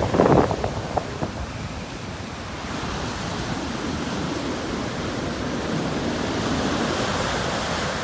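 Ocean surf breaking on a beach: a steady rushing wash of waves that swells gradually over the last few seconds, with a brief louder rumble at the very start.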